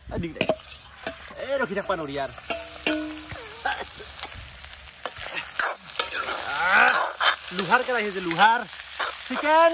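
Chicken frying and being stirred in a hot kadai: a steady sizzle, with a voice over it much of the time.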